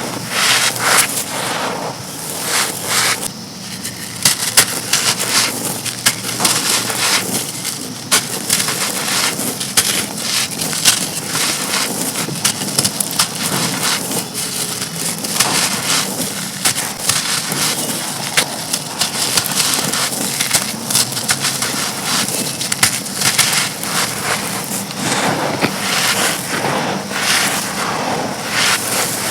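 Dry, brittle black bricks being crushed and crumbled, with dense continuous crunching and crackling and many sharp snaps throughout.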